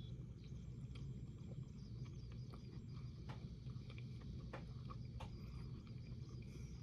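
Faint close-up chewing of a mouthful of fried herring: irregular soft clicks and wet mouth sounds over a steady low hum.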